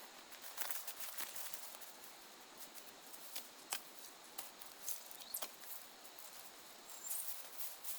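Dry branches and twigs rustling and crackling in irregular clicks as they are handled and dragged, with a short high chirp near the end.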